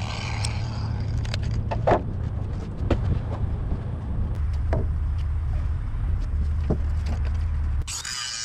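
An engine running at a low, steady speed with scattered sharp knocks and clicks over it; it cuts off suddenly near the end.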